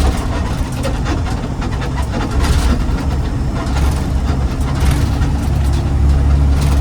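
Garbage truck's engine running under way with a steady low hum and loose rattling and clicking; the engine note grows louder about five seconds in.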